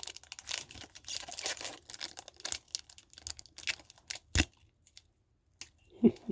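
Crinkling and tearing of a Pokémon booster pack's foil wrapper that is hard to get open, with one sharp knock about four seconds in.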